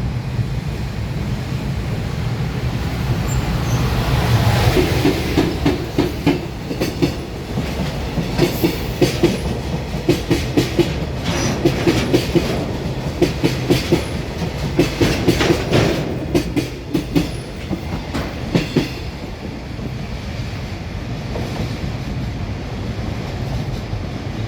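A short freight train passes, headed by an EF210 electric locomotive with a flat wagon, five tank wagons and another flat wagon. The rumble peaks as the locomotive goes by about four seconds in. The wheels then clatter over rail joints in quick groups of clicks until about nineteen seconds, after which the rumble eases off.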